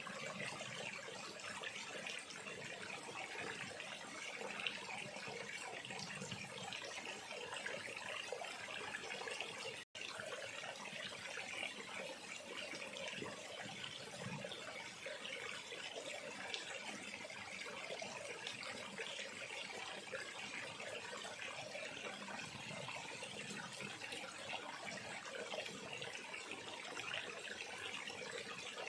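Small river flowing steadily over its bed, a constant noise of running water, cut off for a split second about ten seconds in.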